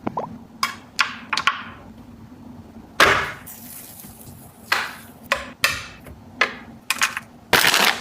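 Food containers and packages being handled and set down on shelves: a string of separate sharp knocks and clatters, about a dozen, with two longer scraping or rustling clatters about three seconds in and near the end.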